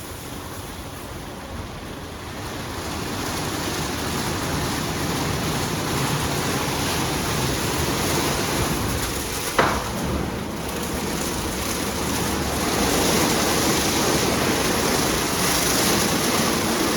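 WashTec automatic car wash running over the car, heard from inside the cabin: a steady rushing of water spray on the bodywork that grows louder about three seconds in. A single sharp knock comes about ten seconds in.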